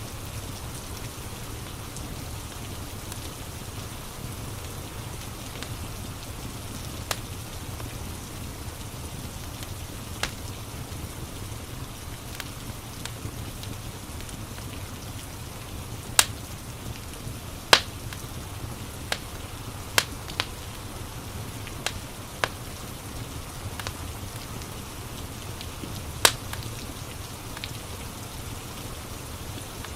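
Steady rain with the crackle of a wood fire: a continuous hiss of rain, broken by scattered sharp pops from burning logs, loudest and most frequent in the second half.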